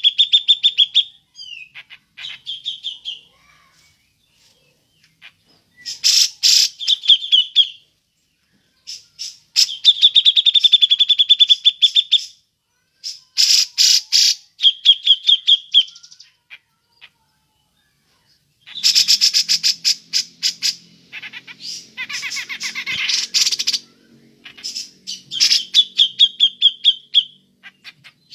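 Cucak jenggot (grey-cheeked bulbul) giving its chattering 'ngepik' call: bouts of rapid repeated notes, several ending in a fast trill, with short pauses between bouts. A faint low hum sits under the calls for a few seconds past the middle.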